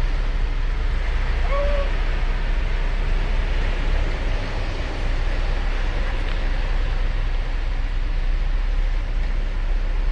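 Ocean waves breaking and washing on a sandy beach, a steady surf noise with a deep low rumble. About a second and a half in, a single short pitched call sounds over the surf.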